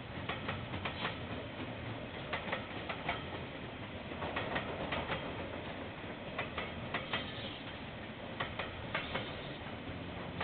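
A KiwiRail train passing: a steady rumble with many irregular sharp clicks from the wheels over the rail joints, heard through a security camera's microphone.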